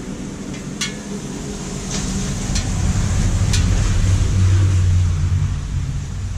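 A motor vehicle's engine rumbling, growing louder over the first few seconds and then easing off, like a vehicle passing by. Several sharp clicks of parts being handled in the first few seconds.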